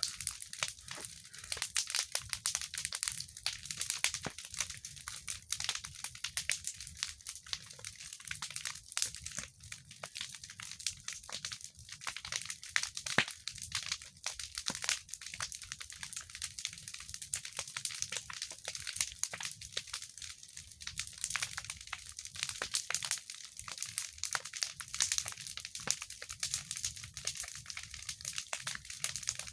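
A large bonfire burning strongly, its wood crackling and popping continuously, with sharper pops here and there.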